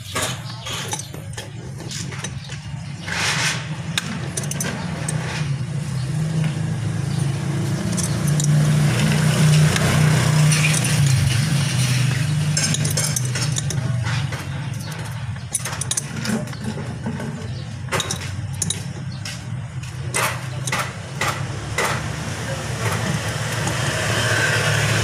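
Scattered metal knocks and clinks from tools working the ball bearing off a dismantled power steering pump, over a steady low hum.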